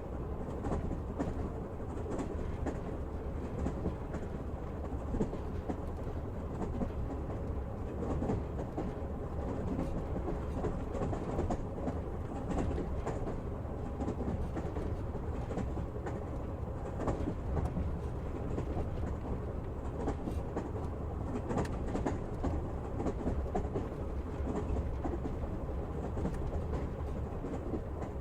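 Wheels of a moving passenger train clattering over the rails with a steady low rumble, heard from inside the carriage.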